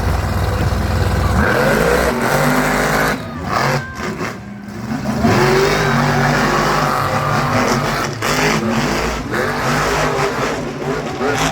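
Monster truck engines revving hard during a straight-line drag race, the pitch climbing and dropping away several times, with a brief lull about three to five seconds in.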